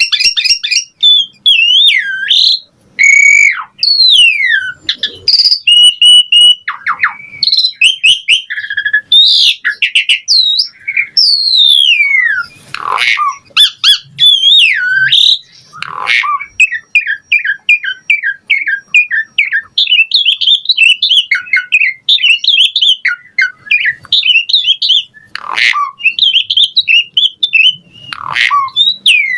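Asian pied starling (jalak suren) singing a long, varied song: loud whistles, sweeping glides up and down in pitch and harsh squawky notes, with a quick run of short, evenly spaced chirps about halfway through.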